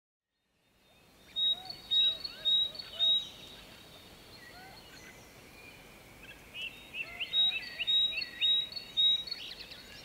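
Dawn bird song: fading in from silence, two bouts of quick, repeated clear whistled notes, one about a second and a half in and another around seven seconds, with lower call notes among them, over a faint steady background hiss.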